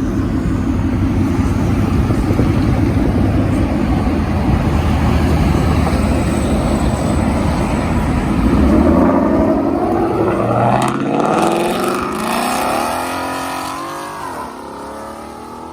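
Loud car exhaust as cars pull out: a deep, steady rumble for several seconds, then an engine revving with rising pitch about nine seconds in before it passes and fades away near the end.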